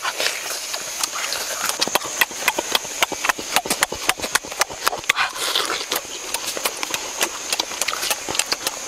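Close-up wet chewing, lip smacking and slurping as juicy watermelon is bitten and eaten: many quick, irregular clicks, with a steady high hiss in the background.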